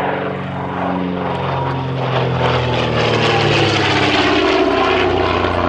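De Havilland DH.88 Comet's twin Gipsy Six piston engines driving propellers as the aircraft flies past, the engine note dropping in pitch as it goes by.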